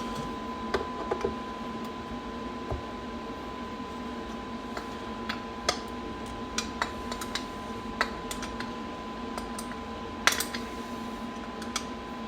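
Small metal carburettor choke parts being handled and taken apart on a workbench: scattered light clicks and taps of metal, irregular, with one sharper click about ten seconds in.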